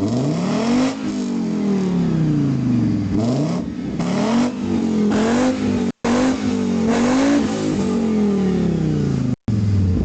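Car engine revved repeatedly, its exhaust note climbing and falling back several times. The sound cuts out twice for a split second.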